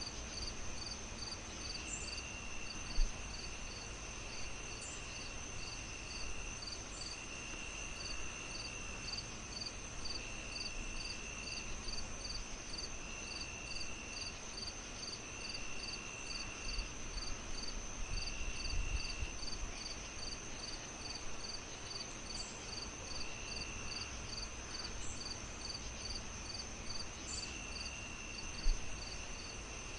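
Crickets chirping steadily: a constant high trill, evenly repeated chirps at about two or three a second, and a lower trill that starts and stops every second or so. Under them runs a steady low hiss of a fireplace, with two louder low pops, one about three seconds in and one near the end.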